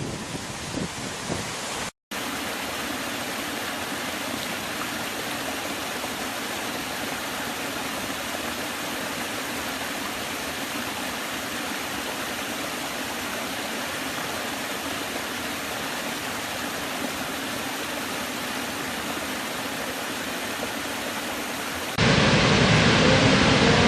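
Steady rush of running water, broken by a brief dropout about two seconds in. Near the end a louder, deeper rush of water cuts in.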